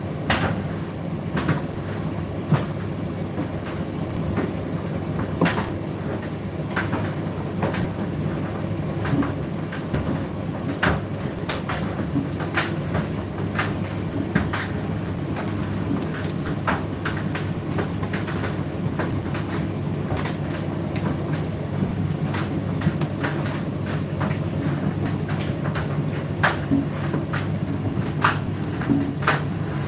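Indesit IDC8T3 condenser tumble dryer running mid-cycle: a steady low motor and drum hum, with irregular clicks and knocks from the tumbling drum.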